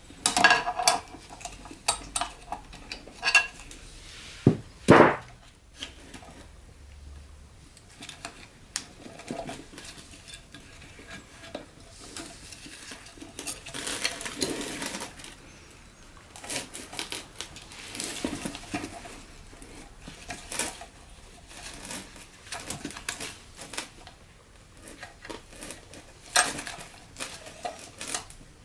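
Metal transmission parts and hand tools clinking and knocking at irregular intervals, the loudest knock about five seconds in, with a couple of longer scraping sounds in the middle.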